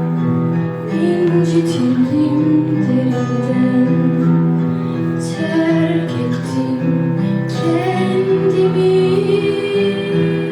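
A young woman singing a Turkish song over guitar accompaniment, with long held and sliding vocal notes.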